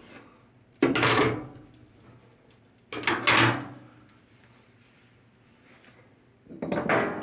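Three loud clunks with a scrape, about two seconds apart, each fading over half a second, over a faint steady low hum.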